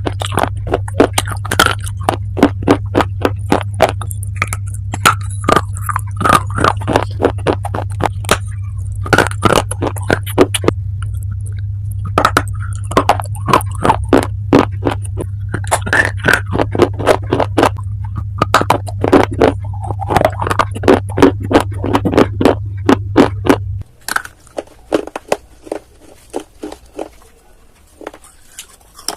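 Crisp, irregular crunches of baked clay being bitten and chewed close to the microphone, under a steady low hum that cuts off suddenly about 24 seconds in. After that the crunches are quieter and sparser.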